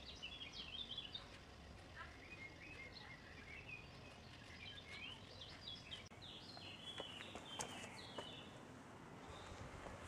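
Small birds chirping and twittering faintly over a steady outdoor background hiss, with a few light taps near the end.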